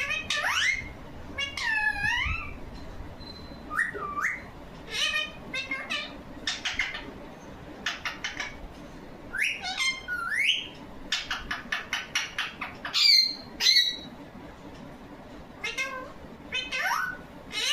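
A pet parrot calling over and over: short whistles that rise and fall in pitch, mixed with quick runs of chattering notes, with brief pauses between calls and a louder call near the end.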